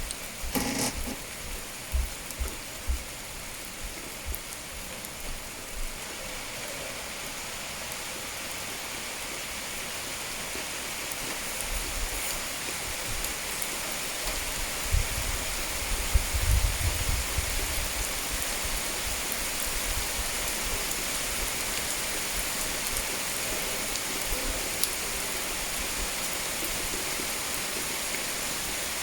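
Steady rain falling, a little heavier after about ten seconds, with occasional low thumps.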